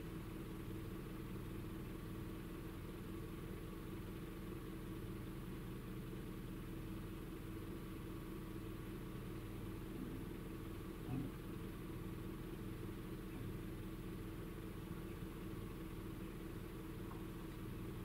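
Toyota Yaris engine idling steadily, heard from inside the cabin as a low even hum with a steady tone. It idles smoothly on a newly fitted ignition coil that replaced the faulty one behind the P0351 misfire code.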